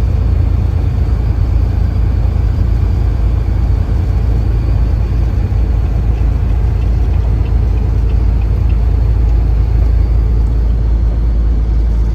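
Steady low rumble of a truck towing a car trailer, heard from inside the cab while driving on a snow-covered highway: engine and road noise.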